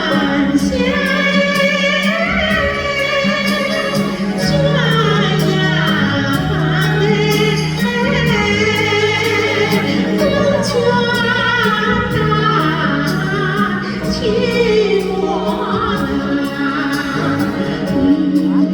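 A woman singing a sustained, wavering melody with vibrato over instrumental accompaniment with a steady bass line.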